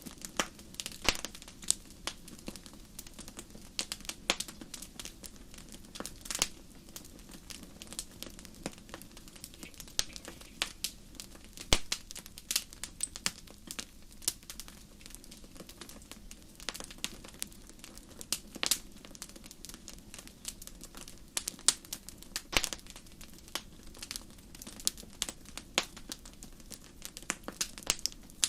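Wood fire burning in a fireplace, crackling with irregular sharp pops and snaps several times a second over a low steady rumble of the flames.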